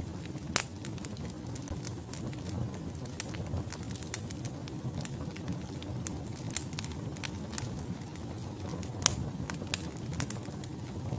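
Wood logs burning in a fireplace: irregular sharp crackles and pops over a steady low rumble of the flames, with a louder pop about half a second in and another about nine seconds in.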